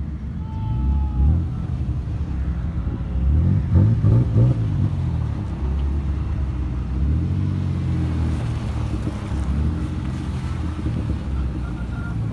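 Off-road 4x4 engines running, revving up and down a few times over a steady low rumble.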